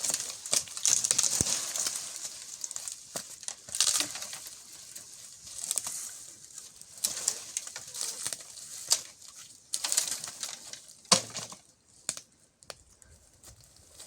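Dry brush and twigs rustling and crackling in irregular bursts as firewood is handled, with a few sharp snaps.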